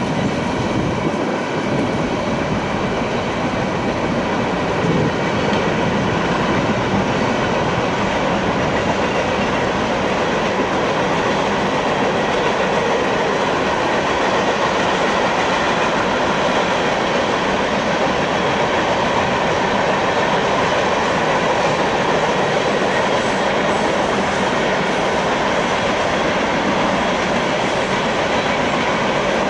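A mixed freight train's cars rolling past: steel wheels running steadily over the rails, a continuous even wheel-and-rail noise with no pause.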